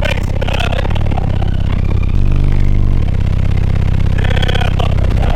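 A high-powered car audio subwoofer system playing a loud bass demo, a deep bass line that steps between notes.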